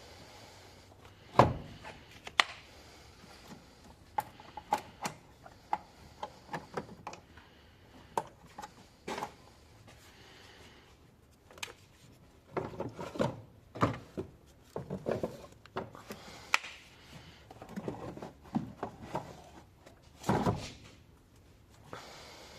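A series of irregular knocks, clicks and rubbing sounds, with no steady engine running. The sharpest knock comes about a second and a half in.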